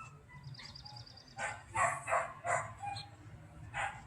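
A dog barking repeatedly, about six short barks in quick succession starting about a second and a half in.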